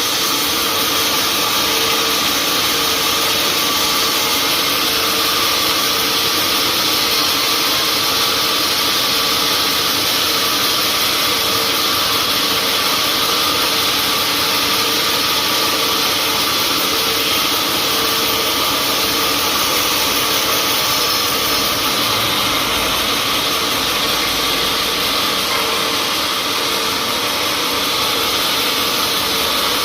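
Sawmill machinery running steadily, a constant loud mechanical hum and hiss with no breaks.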